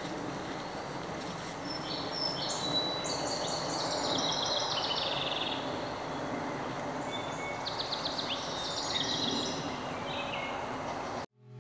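Several songbirds singing in quick trills and runs of repeated high notes over a steady background din of outdoor ambience. The sound cuts off suddenly near the end.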